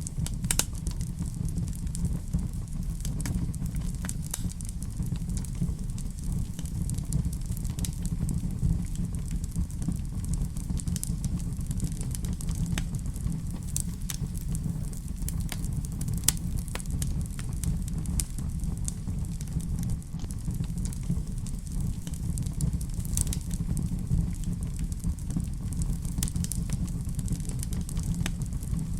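Fireplace fire burning: a steady low rumble with scattered sharp crackles and pops.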